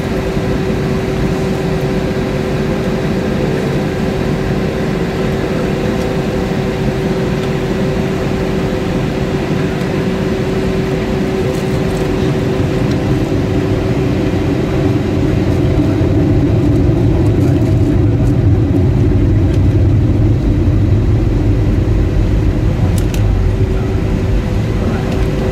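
Airbus A320 cabin noise heard from inside the cabin: a steady hum with one held tone over a low rumble, the rumble growing louder about halfway through as the aircraft moves on the ground before takeoff.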